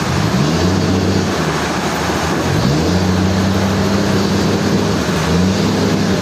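Sawmill machinery running loud, its motor humming over a wide mechanical noise. The motor's pitch climbs about half a second in and again near three seconds, then drops briefly near the end, as it changes speed.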